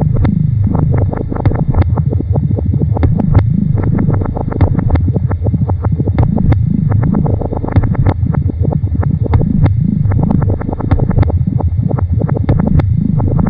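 Experimental electronic noise music: a loud, dense low rumble with low tones that bend up and back down again and again, under a steady scatter of sharp irregular clicks and pops.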